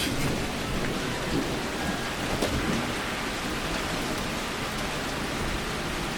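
Heavy rain falling steadily, with a low uneven rumble underneath and a single sharp tick right at the start.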